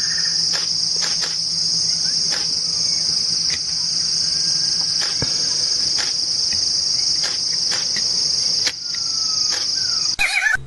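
Insect trilling: one continuous, steady high-pitched buzz with a few faint clicks, cutting off abruptly shortly before the end, where brief bird chirps follow.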